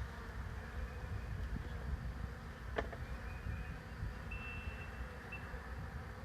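A swarm of honeybees buzzing steadily just overhead, with one sharp click nearly three seconds in.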